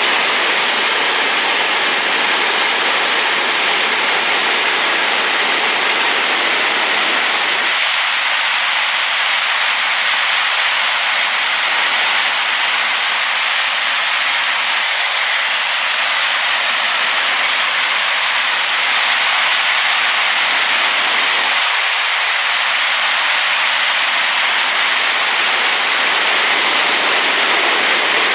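Waterfall in spate after rain, water pouring over the drop with a loud, steady rushing noise.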